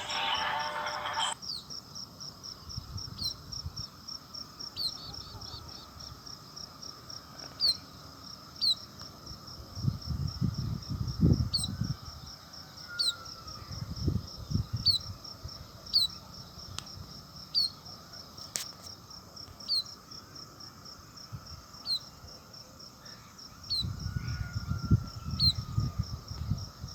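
Insects chirping: a steady high, rapidly pulsing trill with short, sharper chirps about once a second. Low rumbles come and go now and then.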